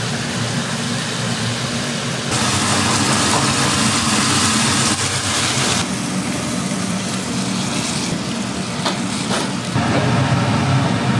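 A steady low mechanical hum with a loud hiss from about two to six seconds in, and two faint clicks near the end.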